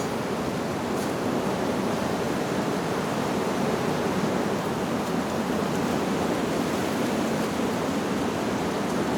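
Wind rushing steadily through leaves, an even rustling noise with no chime heard.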